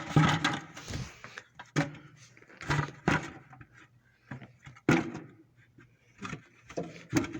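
A series of separate knocks and clunks a second or more apart, like objects being handled and set down.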